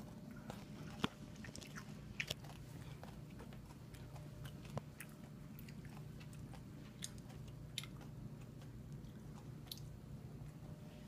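Someone chewing a bread sandwich filled with M&Ms, the candy shells crunching in scattered sharp crackles, over a faint low hum.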